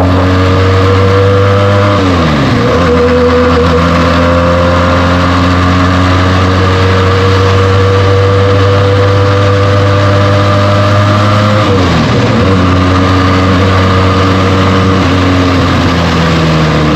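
Benelli TNT 300's parallel-twin engine on its stock exhaust, pulling under steady throttle with slowly rising pitch. It is cut by two upshifts where the pitch drops sharply, about two seconds in and again about twelve seconds in, with wind rushing past the microphone throughout.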